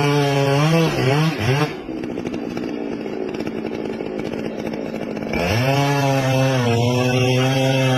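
Chainsaw running at full throttle with a steady high whine. About a second and a half in, the pitch falls away to a lower, rougher rattle, and about five and a half seconds in it revs back up to full speed.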